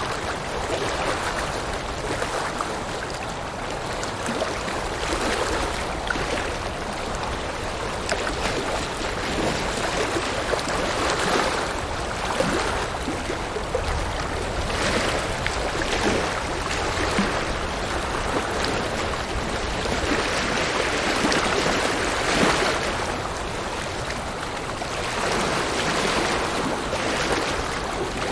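River water rushing and splashing over rocks, a steady flowing noise that swells and eases every few seconds.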